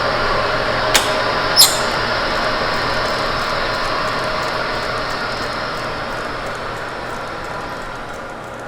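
HO scale model train running on the track: a steady rolling rattle with a faint motor whine, two sharp clicks about a second in, and a gradual fade.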